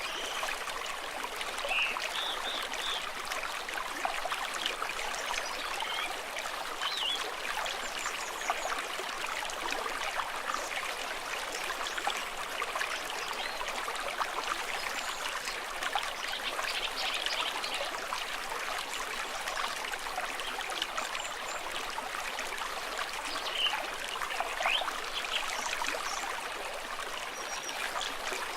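Small stream babbling and trickling steadily, with a few brief faint high chirps scattered through it.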